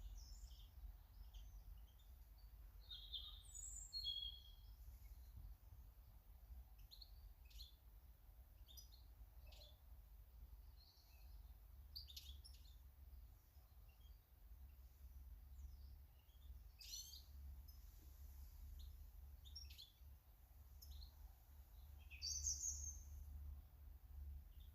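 Faint chirps and short calls of small garden birds, scattered irregularly, over a steady low hum. One call near the end is louder.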